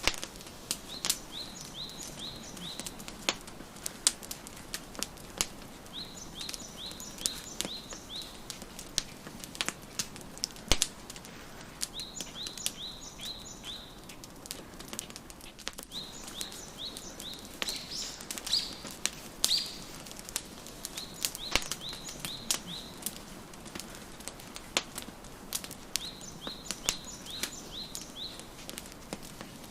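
Wood fire crackling with frequent sharp pops and a soft hiss, while a small songbird sings short runs of four to six quick high notes, repeated every few seconds.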